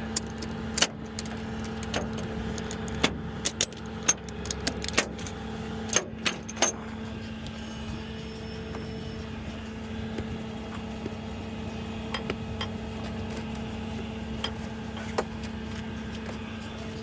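A tow truck's engine running steadily with an even hum. Sharp metallic clicks and clanks come thick through the first seven seconds or so, with a few more later on.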